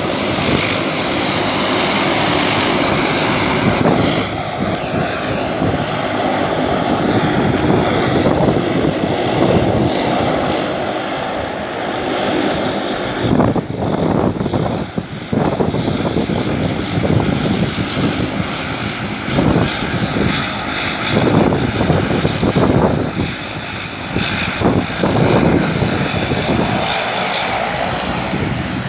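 Airliner engines running loudly at close range, a dense steady noise with a steady whine through it. Near the end a higher whine rises.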